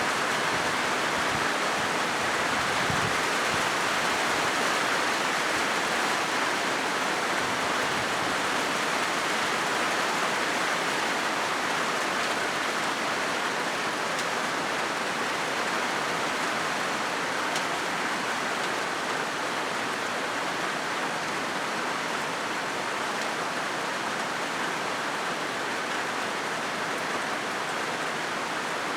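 Steady rain falling on a corrugated zinc roof, a dense, even hiss of drops on the metal sheets.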